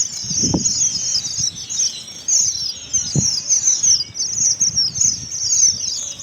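Strawberry finches (red avadavats) singing in a continuous stream of high, rapid twittering chirps. Two brief low thumps come through, about half a second in and about three seconds in.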